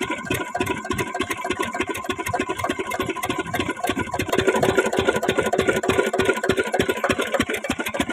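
Lister-type 8 hp single-cylinder diesel engine running steadily, its exhaust beating out a fast, even chug.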